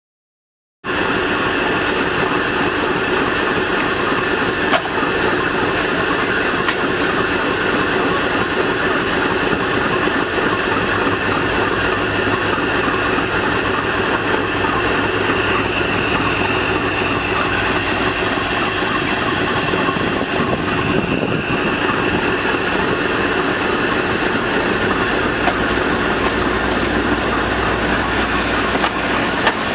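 A train running, heard as a loud, steady rushing noise with a low rumble underneath. It starts abruptly about a second in.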